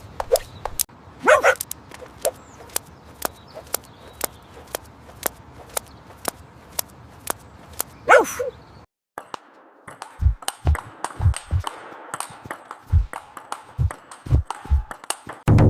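A rapid, irregular run of sharp taps and clicks, with a short dog bark about a second in and another about eight seconds in. After a brief break come several low thuds among the taps, and near the end a loud bell-like ring that fades away.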